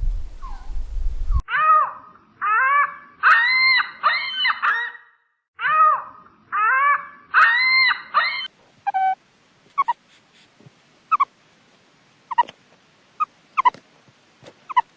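An animal calling: runs of high, arching whining calls in quick clusters, then a series of short sharp yelps spaced about a second apart.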